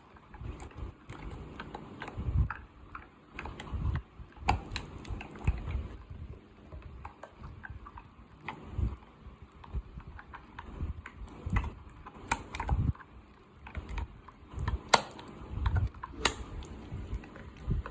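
A dog chewing mutton: irregular wet crunches and sharp clicks of its teeth, with soft low thuds.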